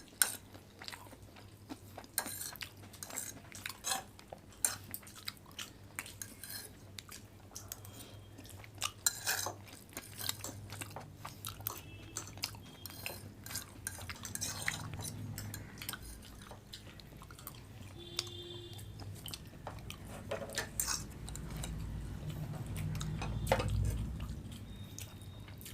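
Cutlery clicking and scraping on plates at irregular moments, with chewing. A low rumble builds in the second half.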